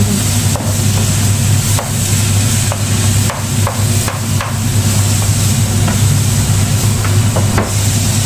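Shallots, spring onion and chillies sizzling in oil in a frying pan, with wooden spoons scraping and clicking against the pans and a knife scraping chopped chillies off a plastic cutting board into the pan. A steady low hum runs underneath.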